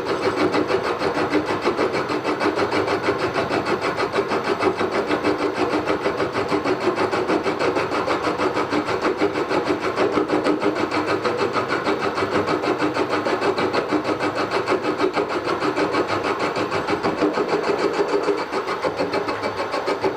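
Milling machine end mill taking a cut, a steady machining whine with fast, even pulsing as the cutter bites. The part is bouncing around too much in its clamping, so the cut chatters.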